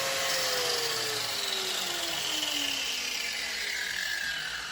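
Zubr wall chaser's electric motor and cutting discs spinning down after switch-off, the whine falling steadily in pitch over about three seconds.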